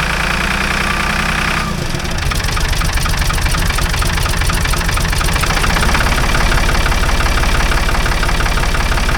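Ford 555 backhoe's rebuilt diesel engine running steadily. Its note changes about two seconds in and picks up slightly near six seconds.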